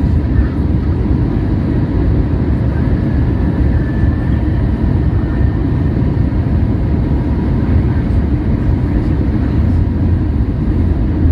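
Steady cabin noise inside a Boeing 737-800 airliner: an even low rumble of its CFM56 engines and airflow, with a faint steady whine above it.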